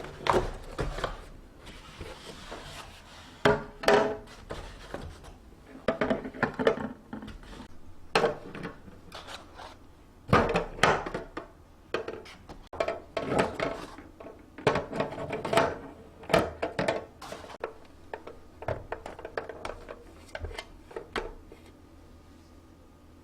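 Irregular knocks, clinks and clatter of food containers and jars being handled and set down while a refrigerator is organised.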